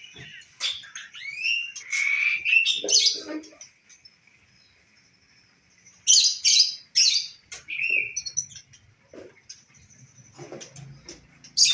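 Caged songbirds chirping and whistling, with quick rising whistles early on. A few loud harsh bursts come about six seconds in, after a brief lull.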